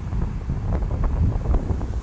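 Wind buffeting the microphone in an uneven low rumble, over the wash of ocean surf on a beach.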